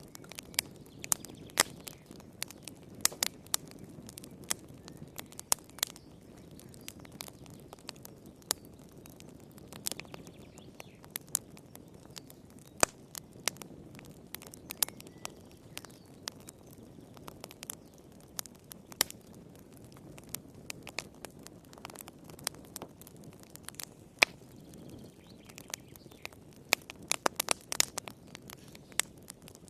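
Fire crackling in a fireplace: irregular sharp pops and snaps over a steady low rumble of flames, with a quick flurry of pops near the end.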